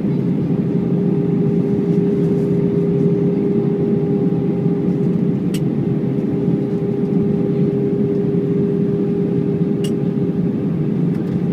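Inside the cabin of an Airbus A319, its CFM56 jet engines running steadily: an even rush of noise with a constant droning hum. Two faint clicks come about halfway through and near the end.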